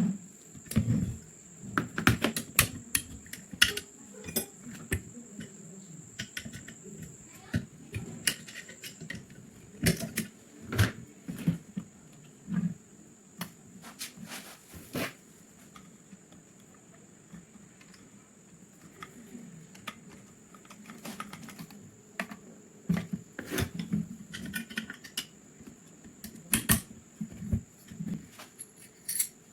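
Irregular clicks and light metallic taps of small gun parts being handled and fitted, in quick clusters with short pauses, over a faint steady high whine.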